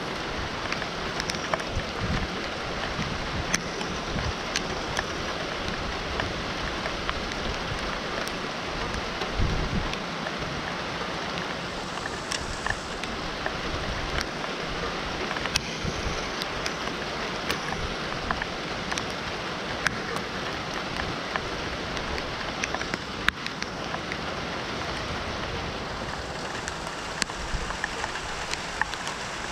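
Steady rain falling, with many scattered sharp drop impacts close to the microphone. A couple of brief low rumbles in the first ten seconds.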